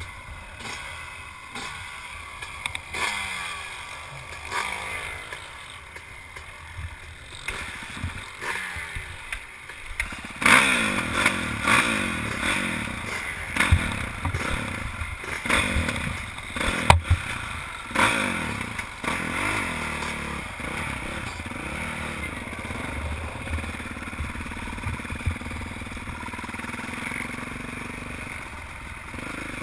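Honda CRF450 single-cylinder four-stroke motocross bike engine revving up and falling back again and again as the rider works the throttle and gears, getting louder about ten seconds in. Scattered knocks and clatter come from the bike over the track, one sharp knock standing out.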